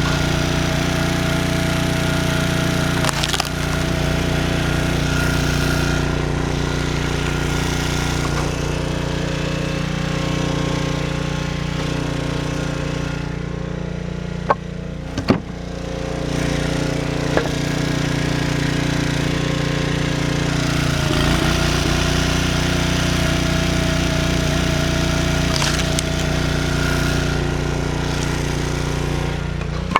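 An engine runs steadily through firewood work, easing off briefly near the middle, with a few sharp knocks of wood around halfway through.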